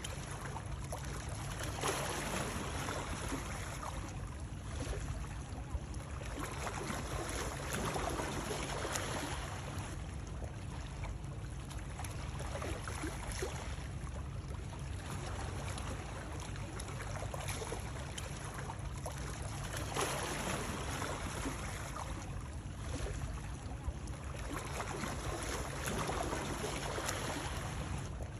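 Running water making a continuous rushing noise that swells and eases every few seconds, over a steady low rumble.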